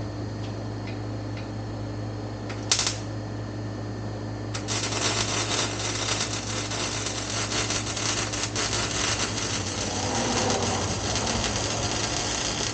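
Welder arc crackling steadily for about eight seconds, starting after a brief burst about three seconds in: a weld being run on the exhaust pipe, over a steady low shop hum.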